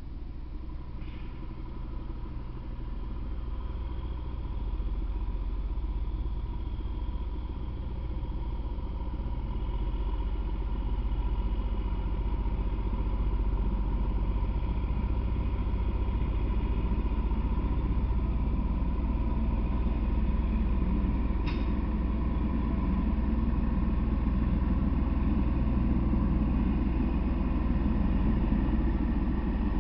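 Train passing on the tracks: a steady low rumble of engine and wheels on rail that grows louder over the first dozen seconds and then holds, with a faint steady whine and one sharp click about twenty seconds in.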